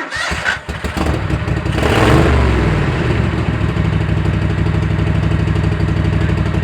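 Kohler Command V-twin engine starting up abruptly, picking up speed about two seconds in, then running steadily at an even speed.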